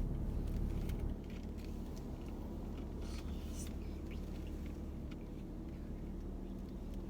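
Car running, a steady low rumble heard from inside the cabin, with a few faint clicks; the rumble drops a little about a second in.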